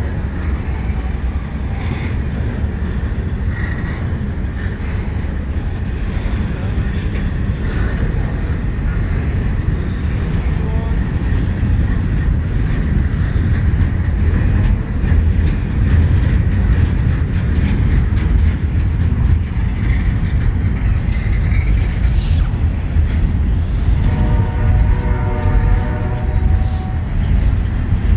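Double-stack intermodal well cars of a freight train rolling slowly past close by: a heavy, steady low rumble with scattered clicks of wheels over the rails. Near the end a horn-like tone sounds for about three seconds over the rumble.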